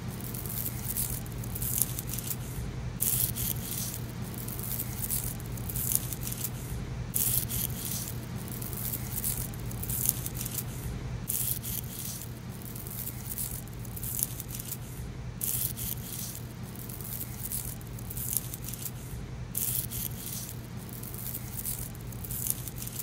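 Dry, dead leaves crushed and rubbed between fingers, crunching in short crackly bursts about once a second, over a steady low hum.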